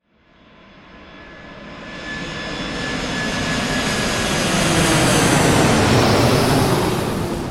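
Airplane flying over: its engine noise swells from nothing, is loudest about six seconds in, then starts to fade as it passes, with a faint whine that drops in pitch.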